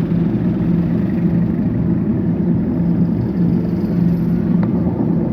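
Steady, loud vehicle and road rumble during a ride, with a constant low engine hum.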